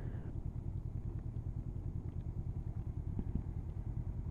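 Motorcycle engine running steadily at low revs with an even, fast pulse, heard from a bike being ridden.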